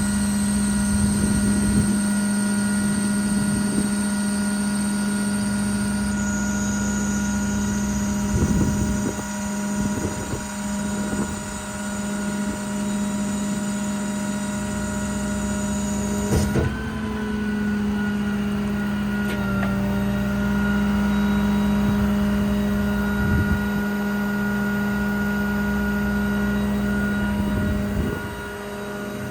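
Service truck's machinery running steadily, a constant humming drone with several steady tones; about sixteen seconds in there is a click and the hum shifts to a slightly different pitch.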